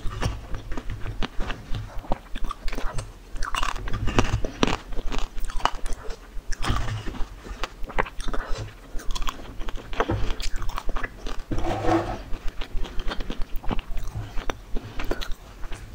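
Close-miked ASMR eating of spoonfuls of yogurt: wet chewing, lip smacks and quick mouth clicks in an irregular run.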